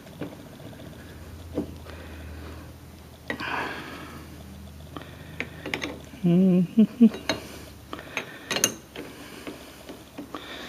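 Hand tools clicking and knocking on a car battery terminal as it is refitted, over a low steady hum that stops about eight seconds in. A short wavering pitched sound comes about six seconds in.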